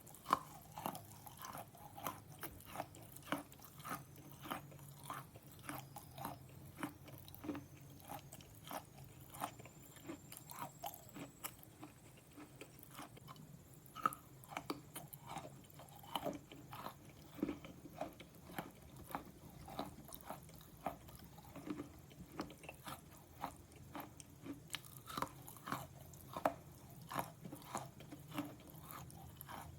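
Slate pencil being bitten and chewed: a steady run of short, crisp crunches, about two to three a second.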